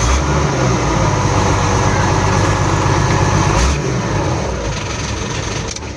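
Mitsubishi Fuso Fighter's 6D14 inline-six diesel engine running loudly, just after starting on a single turn of the key, which shows the repaired starter now works. It eases off slightly about four seconds in.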